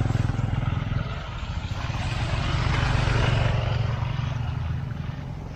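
A vehicle engine running close by with a steady low hum; a hiss rises around the middle and the sound eases off toward the end, as of a vehicle passing.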